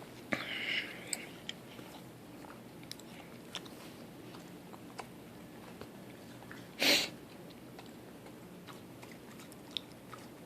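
A dog chewing and licking, with faint scattered clicks. There is a short, louder rustle about seven seconds in.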